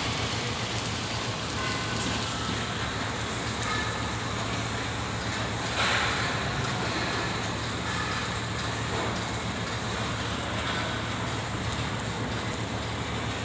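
Arc welding on galvanized steel pipe, crackling steadily over a constant low hum from running machinery, with a short louder burst about six seconds in.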